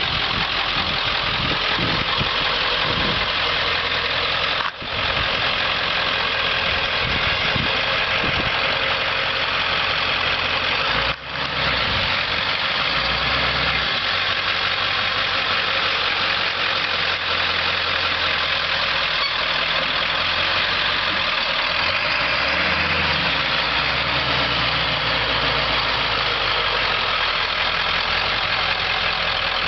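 Ford F450 service truck's engine idling steadily, with two very short breaks in the sound.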